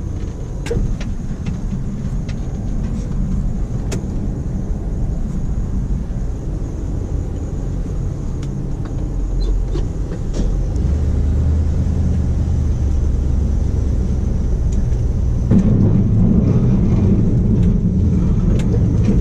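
1991 Dodge W350 pickup's 360 V8 engine running while plowing snow, with a steady low rumble that grows louder about 11 seconds in and again near the end.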